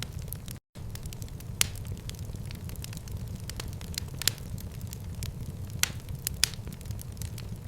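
Wood fire crackling in a fireplace: a steady low rumble of flames with scattered sharp pops, the loudest about one and a half, four, six and six and a half seconds in. The sound drops out completely for a split second near the start.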